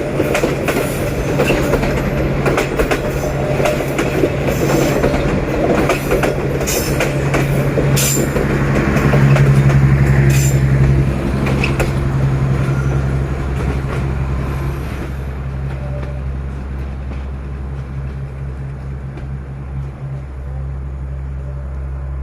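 D19E diesel-electric locomotive working uphill with a passenger train: a steady low engine drone under load, with wheel clicks over rail joints. The drone is loudest about halfway through, and after that the higher wheel noise fades away while the low engine sound carries on.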